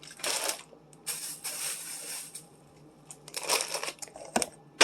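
Food containers and plastic bins being handled and set into a refrigerator: three bursts of rustling and scraping, then two sharp knocks near the end.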